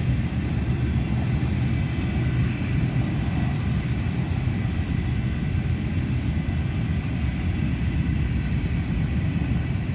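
Freight cars of a long CSX train rolling past, a steady low rumble of wheels on rail.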